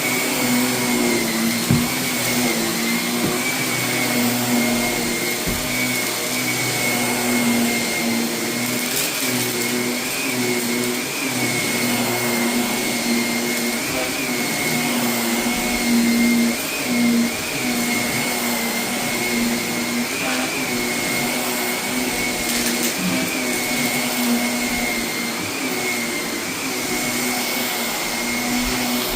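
Carpet vacuum running steadily with a constant motor whine as it is pushed over carpet, picking up loose dust and renovation debris, with a few sharp ticks now and then as grit is sucked up.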